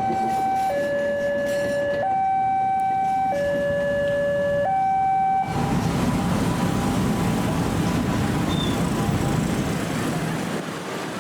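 Two-tone electronic warning alarm alternating between a lower and a higher tone about every second and a half, typical of a railway level crossing signal. About five seconds in it cuts off abruptly, and a loud, steady rushing rumble follows.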